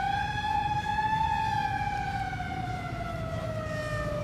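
Fire truck siren wailing, its pitch rising slightly about a second in and then falling slowly and steadily, over a low engine rumble.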